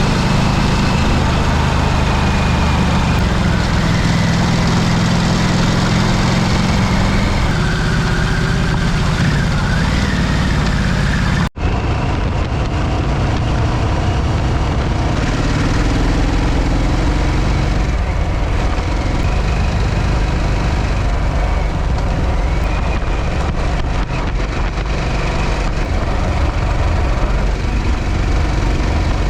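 Harley-Davidson V-twin motorcycle engine running under way on a dirt road, with steady wind and road noise from a camera mounted on the front of the bike. The sound cuts out for an instant about a third of the way through.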